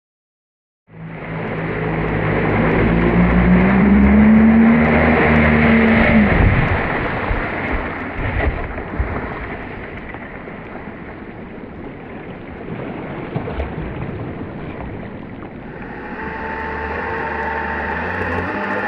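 Jet-powered kayak's engine running at speed on water, its pitch rising over several seconds and then dropping away about six seconds in. Water rushing fills the middle stretch, and the engine runs steadily again near the end.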